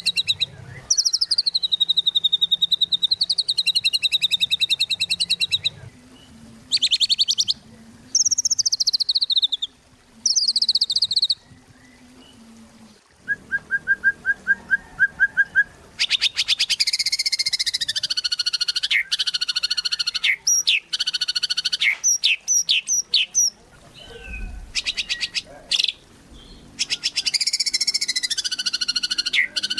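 White-rumped shama (murai batu) singing vigorously: loud phrases of rapid trills and slurred whistles, with short pauses between them and one long unbroken phrase in the middle.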